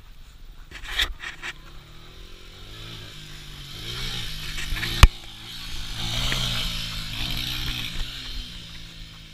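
Small dirt bike engine revving up and down, its pitch rising and falling several times, with a sharp, loud knock about five seconds in.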